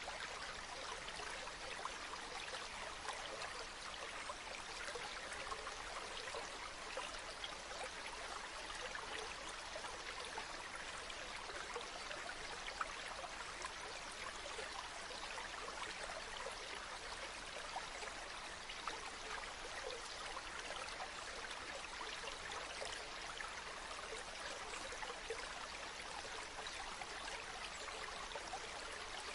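Stream water running steadily, a constant rushing flow with a fine trickling texture.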